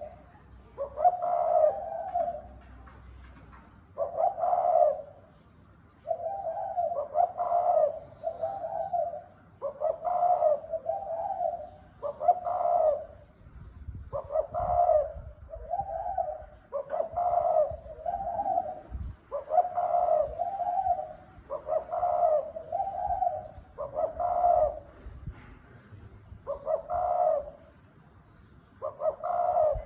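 Spotted dove cooing: a wild male's song repeated over and over in phrases of two or three low coo notes, with short gaps between them. This is the cooing used as a call to provoke and lure wild males.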